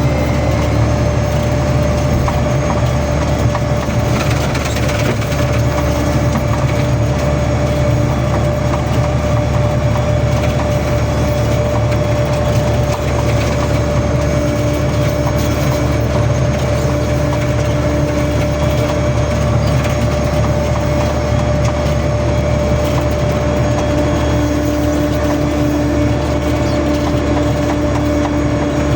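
A motor engine running steadily at constant speed: a low drone with a steady high whine over it.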